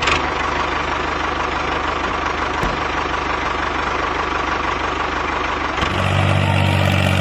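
Motor of a home-built miniature tractor running steadily with a fast buzzing rattle. About six seconds in, the sound changes to a steadier, deeper hum.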